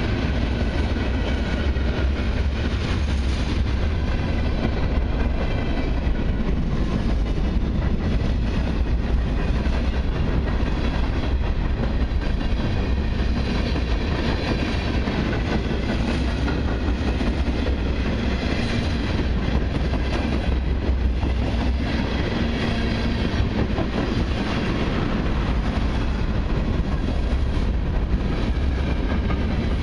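Freight cars of a long train rolling steadily past, a continuous rumble of wheels on rail.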